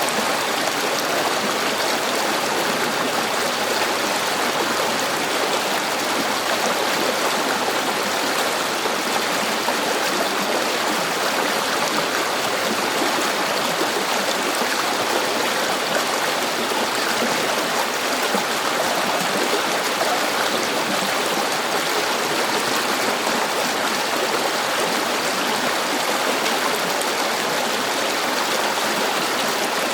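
A river flowing: steady rushing and babbling water with no breaks or changes.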